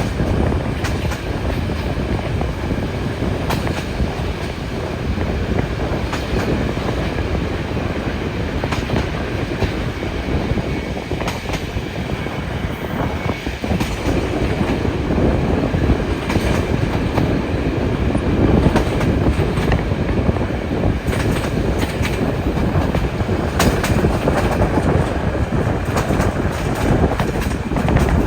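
Steam-hauled train running along the track: a steady rumble of wheels on rails, with scattered clicks as the wheels cross rail joints.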